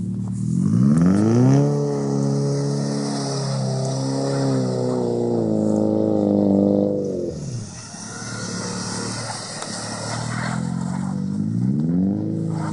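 Subaru Impreza's flat-four engine revving hard and held at high revs while the car slides in circles on snow. The revs fall away about seven seconds in and climb again near the end.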